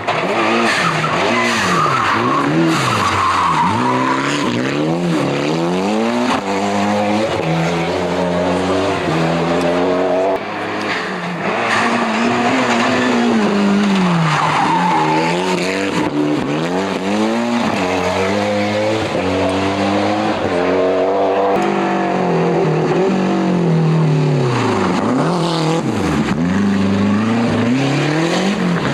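Rally car engines revving hard, rising and falling in pitch through repeated gear changes, lifts and braking, with occasional tyre squeal.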